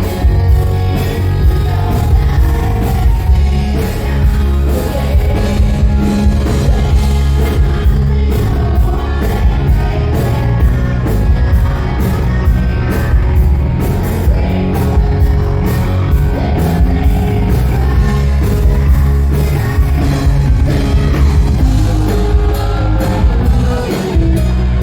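Rock band playing with drums and a lead vocal.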